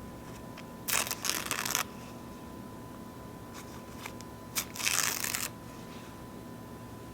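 Paper napkins being torn: two rips of about a second each, one about a second in and one just past halfway, with a few faint crinkles between them.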